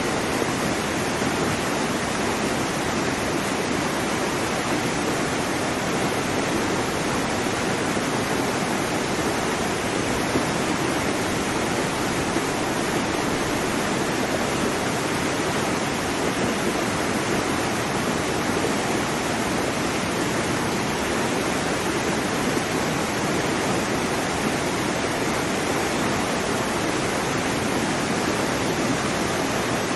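Waterfall: a steady, unbroken rush of falling water with no change over the whole stretch.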